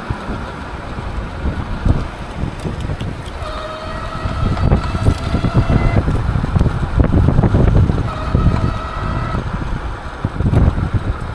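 Strong wind buffeting the microphone in gusts while riding an e-bike, with a faint steady whine for several seconds in the middle.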